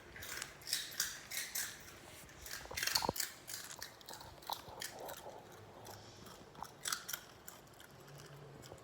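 A small dog chewing crunchy pork rinds (chicharrones): irregular crisp crunches and crackles, loudest and thickest about three seconds in, growing sparser toward the end.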